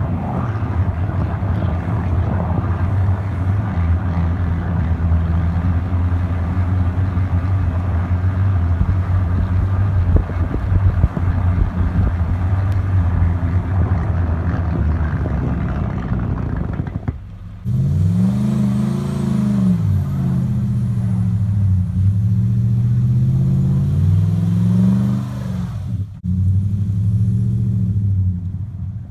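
Ford F-150 pickup engine and exhaust running under way. About 17 seconds in it switches to repeated revving, the pitch climbing and dropping several times in quick swells.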